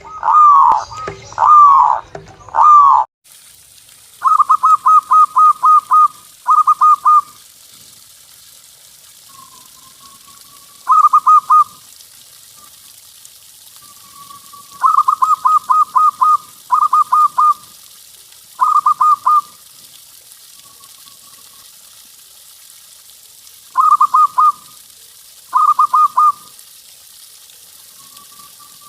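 Zebra dove (perkutut) song: groups of rapid, short staccato coos, each group lasting about a second or two, repeated with pauses between them. The first three seconds instead hold four louder, drawn-out falling notes over a low hum, cut off abruptly.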